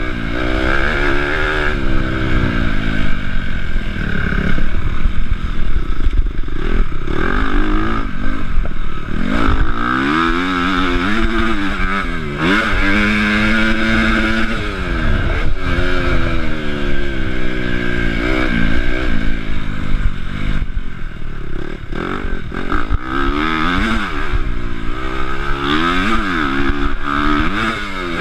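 Honda CRF250 motocross bike's single-cylinder four-stroke engine revving hard, its pitch climbing and dropping again and again as the throttle is opened and closed, with wind rush and rattle on the rider's chest-mounted camera.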